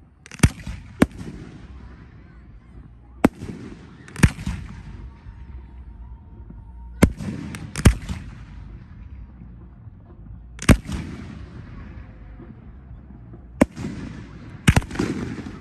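Aerial fireworks bursting in the sky: about ten sharp bangs at uneven intervals, several coming in pairs about a second apart, each trailing off briefly.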